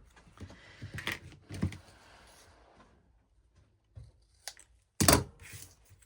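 Taps, clicks and knocks of craft materials and tools being handled and set down on a work table, with one louder thump about five seconds in.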